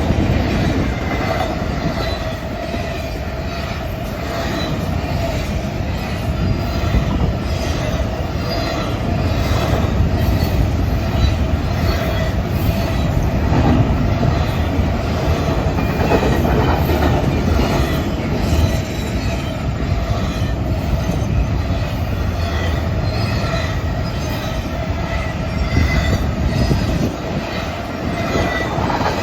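Norfolk Southern intermodal freight train rolling past, a steady loud rumble of wheels on rail with a wheel squeal running through it.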